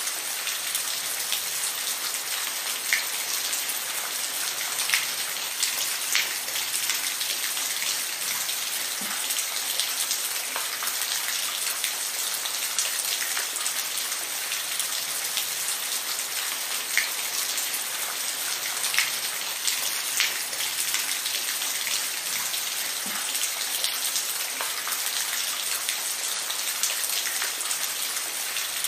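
Steady rain falling, a dense hiss with scattered louder individual drops ticking on a surface.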